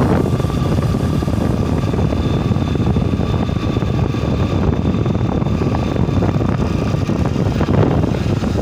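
Steady wind rush on the microphone and engine noise from a Yamaha Libero single-cylinder motorcycle being ridden at a constant pace, with a faint steady whine.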